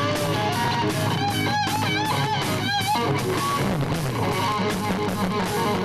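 Live rock band playing, with an electric guitar lead over a steady drum beat; about a second in, the guitar holds wavering bent notes.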